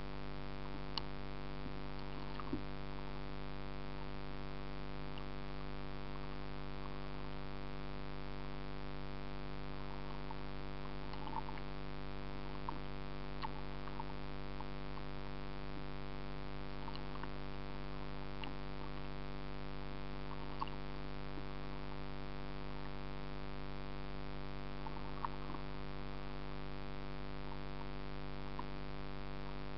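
Steady electrical hum with a stack of even overtones, unchanging throughout, with faint scattered ticks over it.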